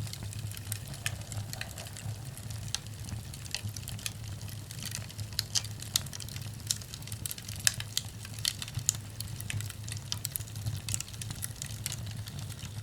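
Firewood burning: frequent, irregular sharp crackles and pops over a steady low rumble of the fire.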